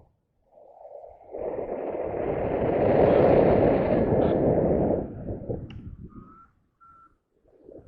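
Wind rushing over the microphone in a gust that builds and then dies away, followed by two short high beeps near the end.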